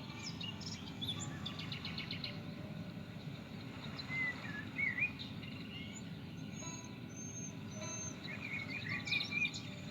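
Birds chirping and calling, with short rising and falling chirps, a rapid trill about a second and a half in, and a cluster of chirps near the end, over a steady low background rumble.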